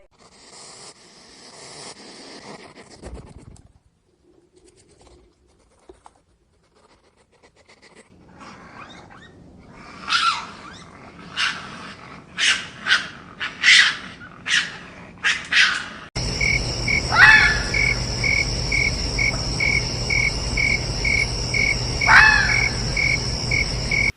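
A run of short, sharp animal calls, then a steady pulsing chirp, about two pulses a second, like an insect's, with two sharp calls over it.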